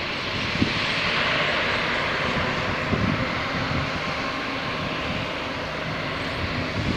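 Jet noise from a departing Airbus A330-300 twin-engine airliner: a steady, dense rush with an uneven low rumble underneath.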